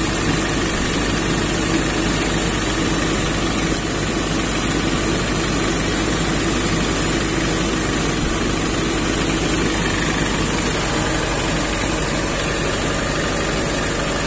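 Mitsubishi Pajero's small engine idling steadily with the radiator cap off, being run so that air bubbles work out of the cooling system after new hoses were fitted.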